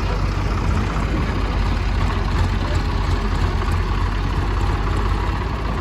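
Heavy diesel engine running steadily with a deep, even rumble, as from the backhoe loader or tractors working the sand pile.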